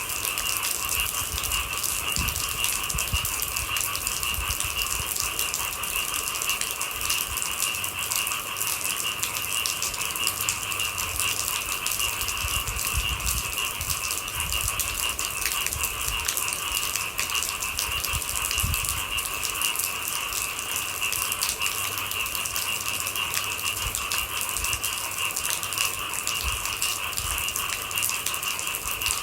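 Steady rain falling in dense, fine patter, with a continuous high-pitched chorus of night animals over it.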